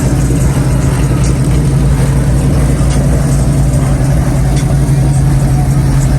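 Car engine idling steadily, a constant low drone.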